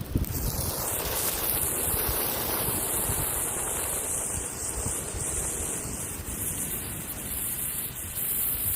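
A lit firework spraying sparks with a steady, high hiss that catches right at the start, over a low rumble of wind on the microphone.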